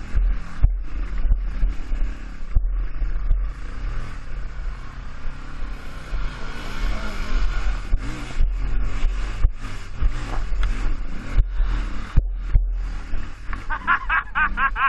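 Dirt bike engine revving up and down as it rides over rough ground, with knocks and clatter from the bike and a heavy low rumble of wind buffeting the microphone. Near the end a higher, wavering sound comes in over it.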